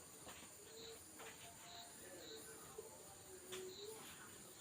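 Near silence: faint steady high-pitched background tone with a few light clicks.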